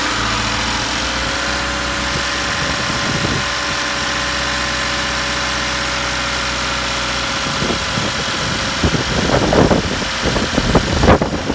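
2017 Subaru WRX's turbocharged flat-four idling steadily, with a steady high tone over the idle. This is the abnormal noise the owner suspects is either a belt chirp or fuel-injector noise. About seven seconds in the low engine hum drops away, and irregular thumps and rustling follow near the end.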